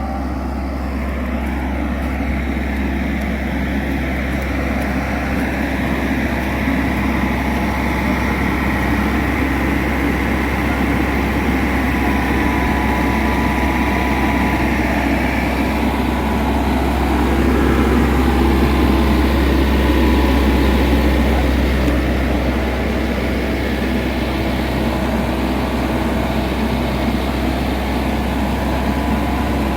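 Small excavator's diesel engine running steadily under a hydraulic load, swelling a little louder for a few seconds past the middle.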